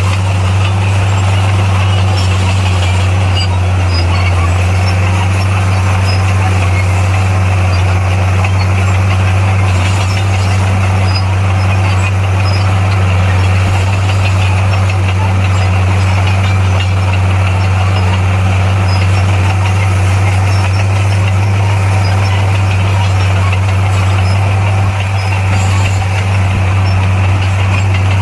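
Heavy diesel engine of earthmoving equipment running steadily at constant speed, a loud, unchanging low drone with no gear changes or revving.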